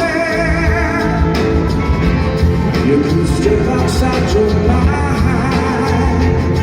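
Live rock band playing a song: a melody line wavering in pitch in the first second over bass and drums, with the full band sounding loud and steady.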